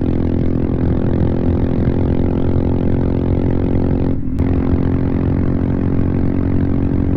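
Royal Enfield Himalayan single-cylinder engine through a full-system Devil Pro Evolution aftermarket exhaust, running at a steady cruising speed. The note holds one pitch, with a short break about four seconds in.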